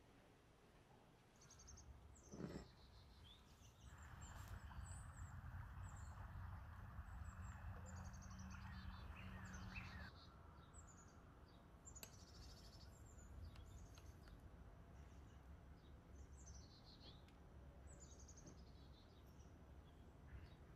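Faint bird chirps: short, high, falling calls about once a second over a low background hum. There is a brief knock about two and a half seconds in, and a stretch of hiss in the middle.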